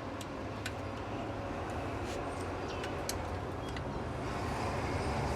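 Irregular light metallic clicks from hand tools doing up a bolt on a ZF 8HP eight-speed automatic transmission during reassembly, over a steady low background rumble.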